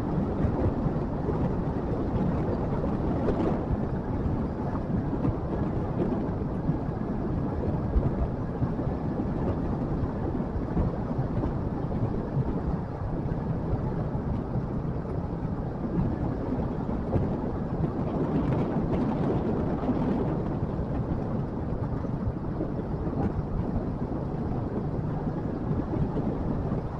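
Motorcycle running steadily while riding, its engine noise mixed with wind rumbling on the microphone.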